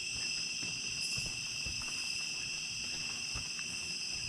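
Night chorus of crickets and other insects, a steady high trilling at several pitches at once, with a few faint low knocks underneath.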